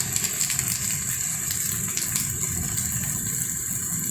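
Steady rain falling: a constant hiss with scattered sharp taps of drops, over a low rumble.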